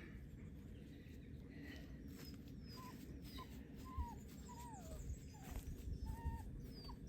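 A puppy whimpering in short high whines that come about once or twice a second from about two seconds in. Faint, quick high chirps from small birds sound over them.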